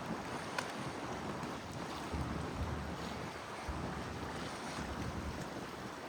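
Wind buffeting the microphone over a steady rushing noise, with stronger low gusts from about two seconds in.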